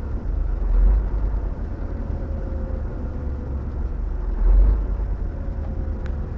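Semi-truck heard from inside the cab while driving: a steady low rumble of engine and road that swells briefly twice, with a faint tone slowly falling in pitch.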